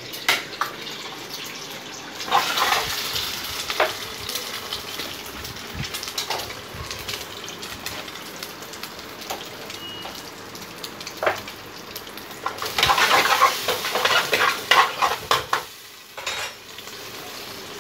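Egg and tomato frying in hot oil in a black wok, sizzling steadily, while a metal ladle scrapes and clicks against the pan. The sizzling and scraping grow louder and busier about two seconds in, and again from about thirteen to fifteen seconds.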